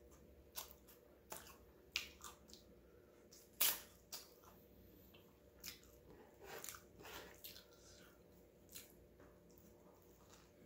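Close-up mouth sounds of a person chewing and biting a soft sub sandwich: irregular wet smacks and clicks, the loudest about three and a half seconds in.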